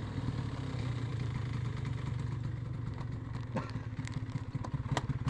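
Small motorcycle engine idling steadily, with a few sharp clicks in the second half.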